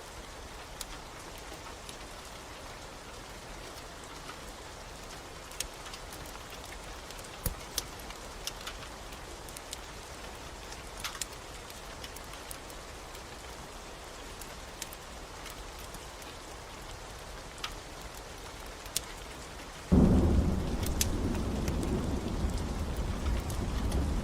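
Steady rain with scattered sharp pops of a crackling wood fire. About twenty seconds in, a loud, low rumble of thunder breaks in suddenly and keeps rolling.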